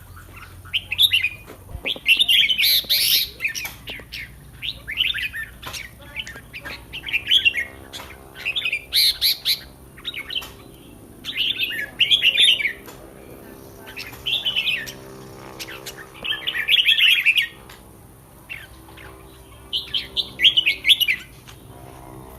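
Red-whiskered bulbul singing short, loud, warbling song phrases over and over, roughly one every one to two seconds.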